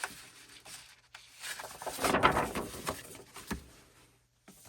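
Paper and album packaging being handled and rustled, loudest about two seconds in, with a single sharp tick a little later.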